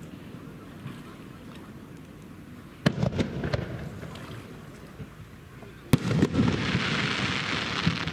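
Aerial fireworks bursting: two sharp bangs about three seconds apart, each followed by scattered pops. The second bang is followed by a steady hissing crackle lasting about two seconds.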